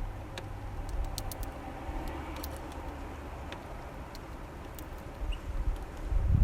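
Low outdoor background rumble that swells near the end, with faint scattered ticks and one brief high chirp about five seconds in.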